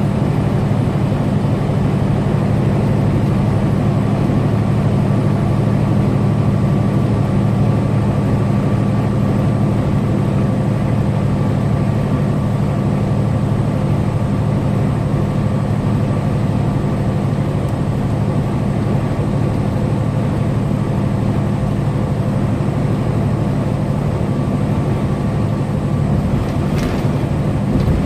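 Semi-truck cruising on the highway: a steady low engine drone with road noise.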